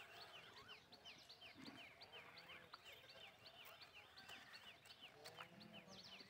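Faint chirping of small birds: many short, high-pitched falling chirps, several a second, in a steady run.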